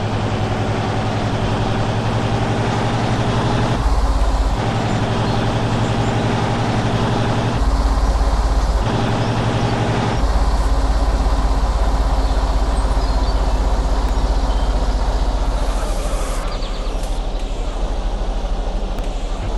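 Heavy truck engine running under way, its pitch dropping and returning twice (at about 4 and 8 seconds) and then settling lower and steady from about 10 seconds in.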